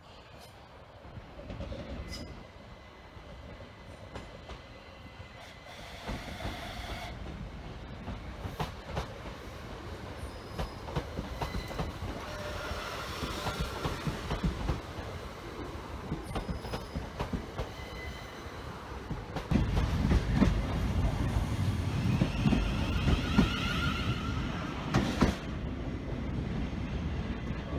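Train rolling slowly over rail joints and pointwork, with a run of clicks and clacks from the wheels and intermittent thin wheel squeals. It grows louder about two-thirds of the way through, with a wavering squeal near the end.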